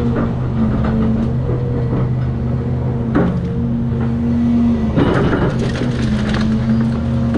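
Large diesel excavator running under load, with a whine that comes and goes, while wood debris crunches and cracks in short bursts of house-demolition material being crushed and moved, strongest around three seconds in and again from about five seconds.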